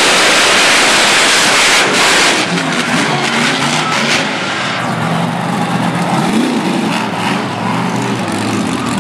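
Monster truck engines at full throttle launching off the line in a drag race, loudest for the first two and a half seconds, then easing to a lower, wavering engine note.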